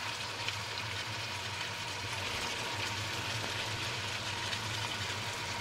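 White beans and paprika sizzling in olive oil in a stainless steel pot: a steady frying hiss with a low hum underneath.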